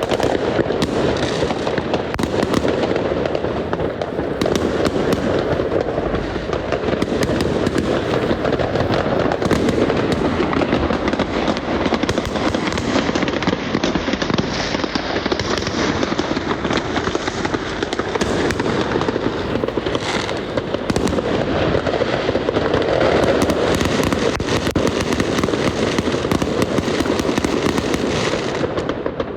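New Year's fireworks and firecrackers going off in a dense, continuous barrage of bangs, pops and crackling from many directions at once.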